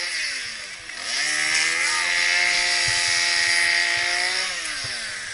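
Gas chainsaw revved up briefly, then opened up to full throttle and held there for about three seconds before easing back down toward idle.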